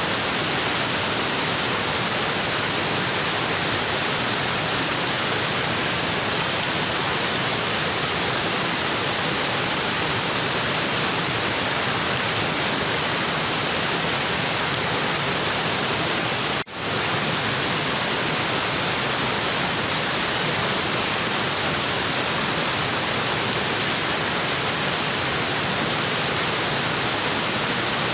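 Tropical waterfall pouring onto rocks: a steady, dense rush of water, briefly cut off for an instant about two-thirds of the way in.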